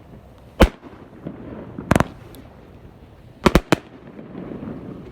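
Fireworks going off in sharp bangs: one about half a second in, a close pair near two seconds, and a quick run of three around three and a half seconds.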